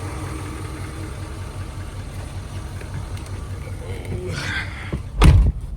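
The 5.0-liter Cummins V8 turbo diesel idles steadily with an even low rumble, its DPF deleted. A single loud thump comes about five seconds in.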